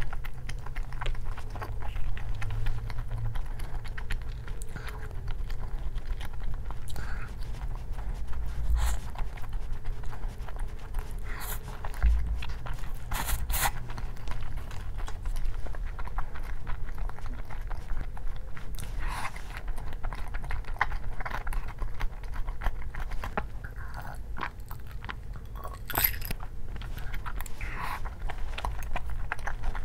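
A person eating close to the microphone: steady chewing and crunching with many small clicks and a few sharper ones, over a steady low hum.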